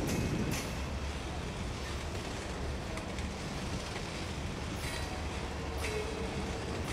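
Freight train's cars rolling past: a steady rumble of steel wheels on rail, with sharp clacks in pairs, two at the start and two about five seconds in.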